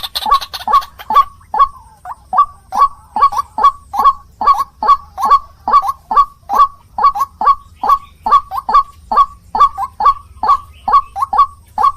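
White-breasted waterhen calling: a loud, unbroken series of short, harsh calls, about three a second.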